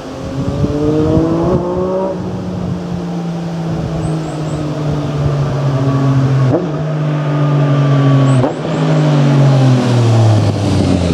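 Yamaha MT-09's three-cylinder engine through a full Akrapovic carbon exhaust: it revs up over the first couple of seconds, then the revs fall slowly. Two short sharp throttle blips come about 6.5 and 8.5 seconds in, over the steady rush of a waterfall.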